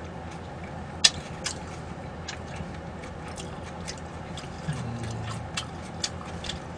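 Eating noises: chewing with irregular soft mouth clicks and smacks, the sharpest about a second in, and a brief low hum from the eater around the middle.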